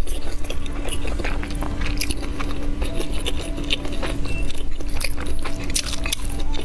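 Close-miked chewing and biting of grilled sausage, a dense run of wet mouth clicks and smacks.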